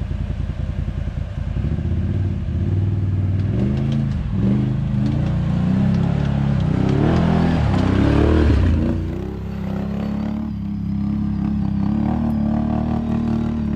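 Vehicle engine running, its pitch rising and falling as it revs through the middle, then holding steady near the end.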